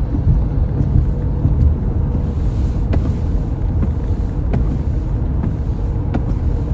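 Steady road rumble of tyres and engine heard inside a moving car's cabin, with faint ticks about every second and a half.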